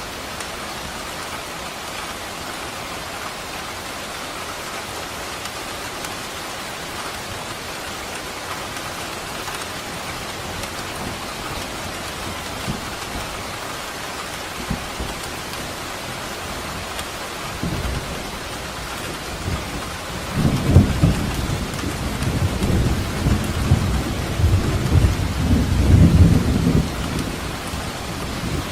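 Steady rain falling, an even hiss throughout. Past the middle a low rolling rumble of thunder builds, loudest in the last third, then dies away just before the end.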